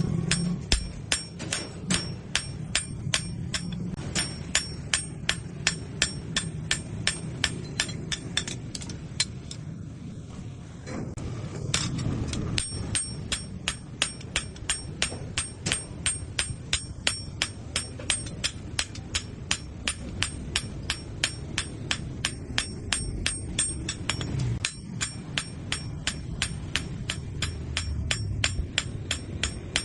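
Hand hammer striking steel on an anvil in a fast, even rhythm of about three ringing blows a second, pausing for a second or two about ten seconds in: steel being forged into a blade.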